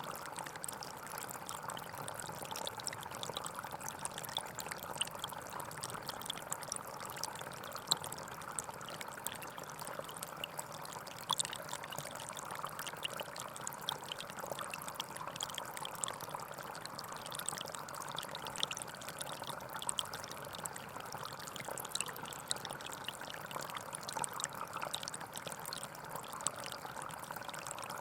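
Gentle forest stream flowing steadily, with many small splashes throughout.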